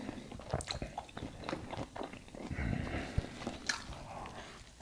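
A person biting and chewing food, with many small irregular clicks.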